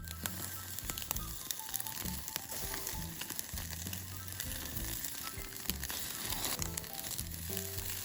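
Chicken skewers sizzling over a wood fire, with many small crackling pops, under background music.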